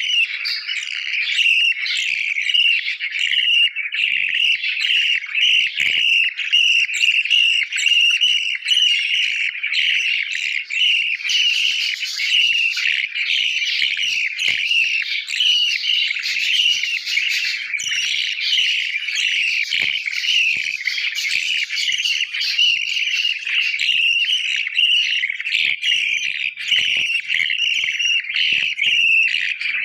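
Budgies chirping without pause, a dense run of short, high, rapidly repeated chirps.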